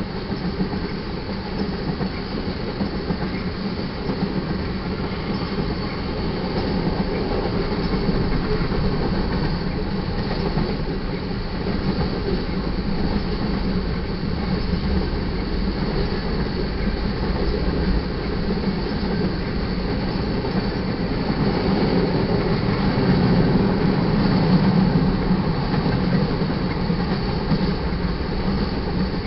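Freight cars of a manifest train rolling past: the steady rumble of steel wheels on the rails, swelling slightly about three-quarters of the way through.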